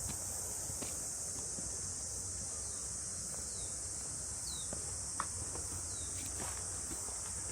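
Steady, unbroken high-pitched drone of summer insects. A few short falling bird chirps come through in the middle, along with a few faint clicks and one sharp tick a little past halfway.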